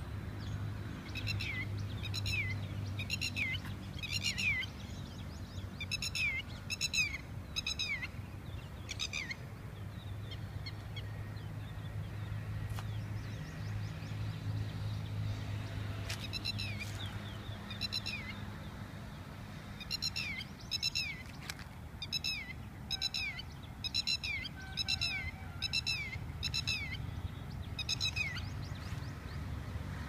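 A bird calling over and over, each call a short note falling in pitch, about one a second, in two long series with a pause of several seconds between them. A steady low rumble lies underneath.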